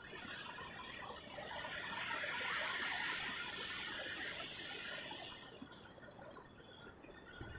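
Ocean surf washing on the beach, a rushing noise that swells about two seconds in and eases off again near the end.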